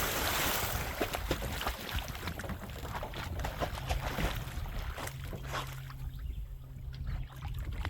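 Water splashing and sloshing close by: a big splash dies away over the first second, then small irregular splashes and drips.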